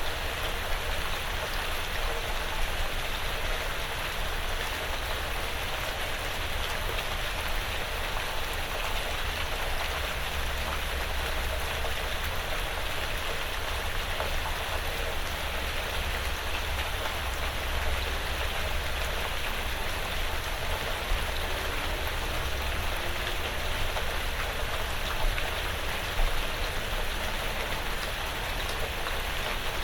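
Light rain falling steadily on a porch roof and the surrounding woods, an even hiss dotted with individual drops, a few of them louder. A low rumble sits under it.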